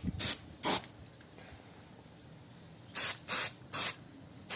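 Aerosol spray can hissing in short bursts: two quick sprays, a pause of about two seconds, then three more, as a rust-preventive spray is applied to a sanded brake rotor.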